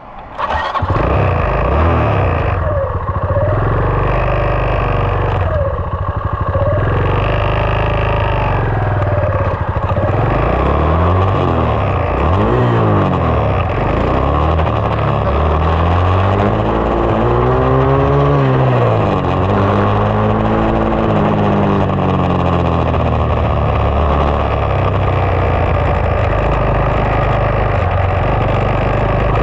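2020 SSR 189 dirt bike's single-cylinder four-stroke engine running loudly. Its pitch rises and falls several times in the middle stretch as the throttle is opened and closed.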